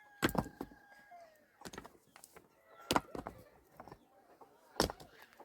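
Four sharp knocks spread a second or two apart, with a faint steady high tone in the first second.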